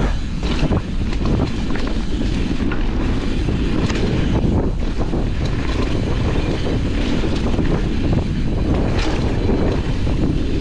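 Wind rushing over the camera microphone and a downhill mountain bike's tyres rolling over the dirt trail at speed, with a few short knocks and clacks as the bike hits bumps.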